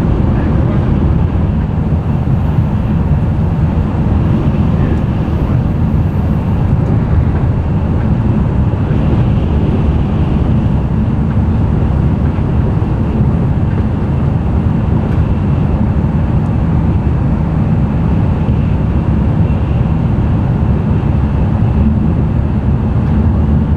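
N700-series Tokaido Shinkansen running noise heard from inside the passenger car: a steady, loud rumble of wheels and track with a lighter hiss above it, unchanging throughout.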